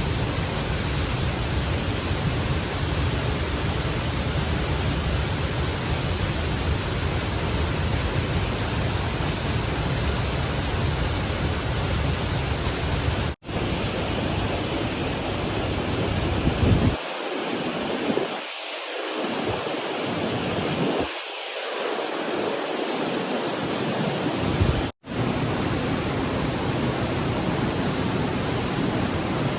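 Stream water rushing steadily, a constant hiss with a low rumble. The sound drops out for an instant twice, and in the middle the low rumble falls away for several seconds.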